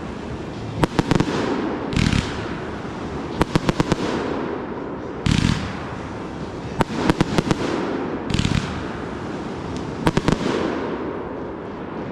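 Consumer aerial fireworks going off in quick succession: deep booms and clusters of sharp cracks every second or two, over continuous crackling.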